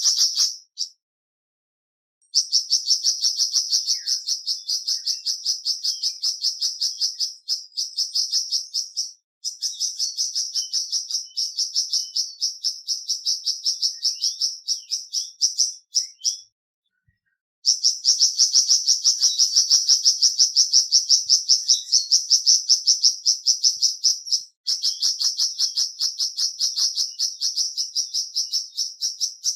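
Song of a flamboyan bird: long runs of a fast, high-pitched trill of rapidly repeated notes, each run lasting several seconds, with brief pauses between runs.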